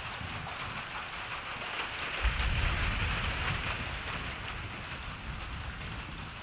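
Steady rain falling, a dense hiss. About two seconds in, a low rumble sets in suddenly and lasts a second or two.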